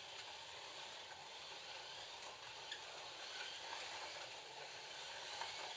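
Slot cars running laps: a steady, faint whirring hiss of their small electric motors and tyres on the plastic track, with a couple of faint clicks.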